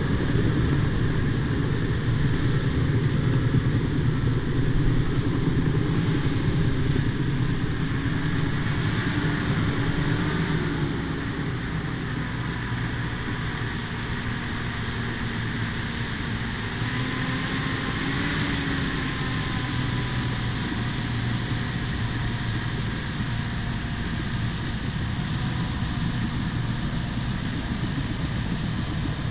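Bulldozer's diesel engine running steadily, with a faint whine riding over it. The sound eases off slightly about a third of the way through.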